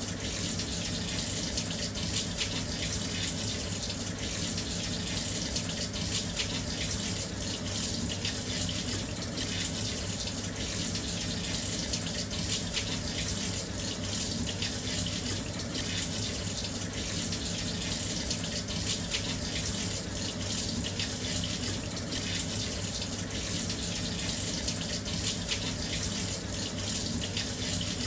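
Washing machine filling with water: a steady, continuous rush of water pouring into the drum, with a low hum underneath.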